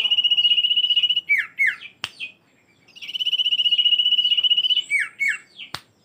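Common iora (Aegithina tiphia) singing: a long rapid trill held on one pitch, given twice, each followed by two or three short notes sliding downward. Two sharp clicks sound in the pauses.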